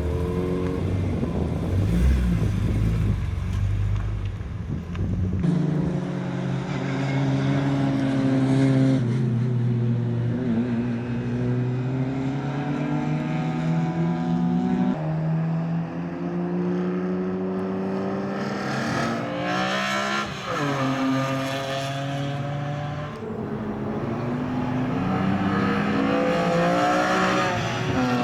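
BMW E46 M3 CSL's 3.2-litre S54 inline-six driven hard on a race track: the engine note climbs in pitch through each gear and drops at every upshift. A quick run of blips and pitch swings near the middle marks downshifts under braking.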